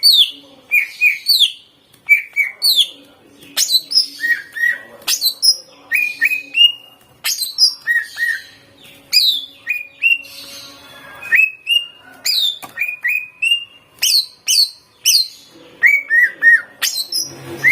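Greater green leafbird (cucak ijo) singing a rapid, varied run of loud whistled notes: sharp downward sweeps and short chirps in quick phrases separated by brief pauses. The song is filled with mimicked phrases of other birds.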